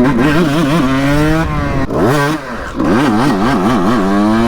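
Motorcycle engine under hard throttle. Its pitch wobbles up and down as the throttle is worked, then climbs in long pulls, each broken by a drop in pitch like a gear change.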